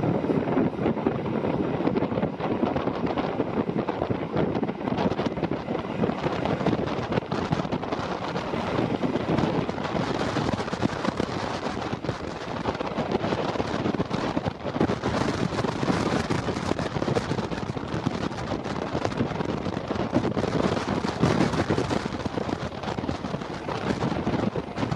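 Locomotive-hauled passenger train running along the track, a steady rushing rumble with wind buffeting the microphone.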